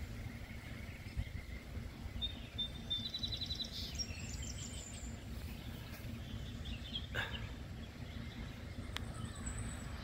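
Outdoor background noise with a steady low rumble, and a few small bird calls: a short rapid trill about two to three seconds in, then thin high chirps later.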